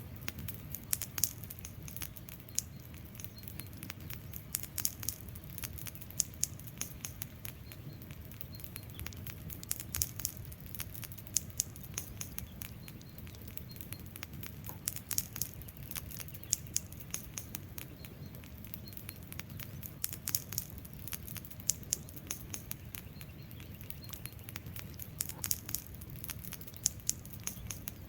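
Wood fire crackling: burning logs give irregular sharp pops and snaps, several a second, some louder than others, over a low steady rumble of the flames.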